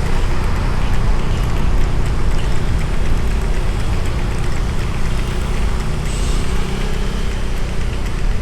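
A motorbike engine runs while riding, with wind noise on the microphone: a steady, loud, low-pitched noise.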